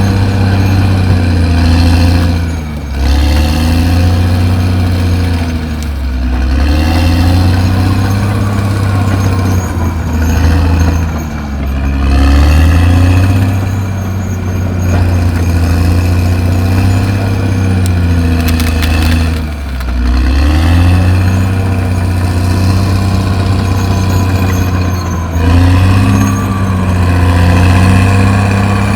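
CAT D6R XL bulldozer's diesel engine working under load. Its note drops and picks back up several times as the load and throttle change.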